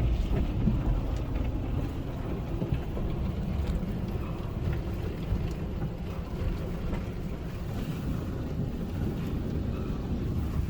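Automatic car wash tunnel equipment running around a car passing through, heard from inside the car: a steady low rumble with a wash of spray-like noise and scattered light taps.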